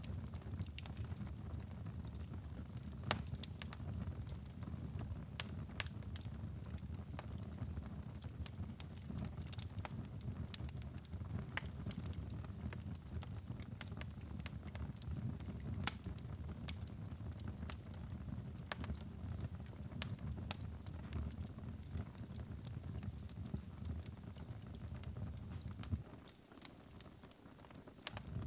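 Wood fire crackling in a fireplace: irregular sharp pops and snaps over a low, steady rumble of burning flames. Near the end the low rumble briefly drops away while the crackles go on.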